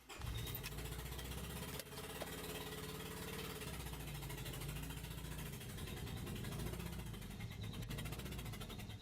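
Mitsubishi Colt four-cylinder engine idling with a misfire, running on only three cylinders: a steady but uneven, rough-running idle. This is the sound of a P0301 fault, a misfire in cylinder 1.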